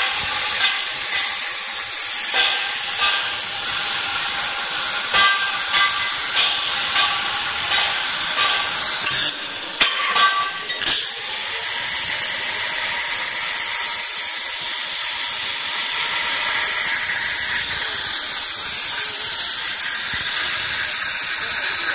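Plasma torch of a pipe-cutting machine cutting steel pipe into rings: a loud, steady hiss, with a short uneven stretch and a few knocks about ten seconds in.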